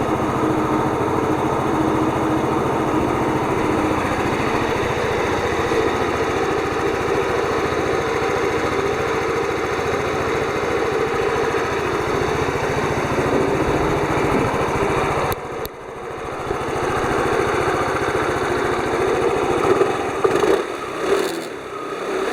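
Yamaha Delight scooter engine running steadily. About 15 seconds in there is a sharp click and a brief drop in level, then the sound builds back up and swells unevenly near the end, as with blips of throttle.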